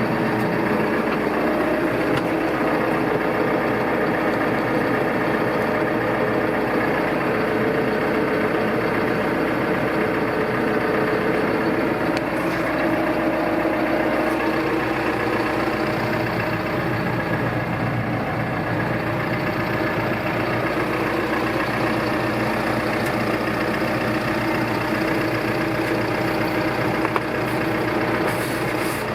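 2012 Landini Powermondial tractor's diesel engine idling steadily.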